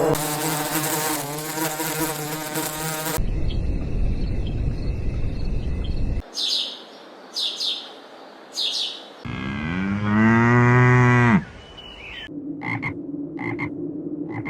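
A run of animal sounds cut one after another: a frog croaking, then an insect buzzing, then three short bird chirps, then a cow mooing about ten seconds in, and finally a few short high calls over a low hum.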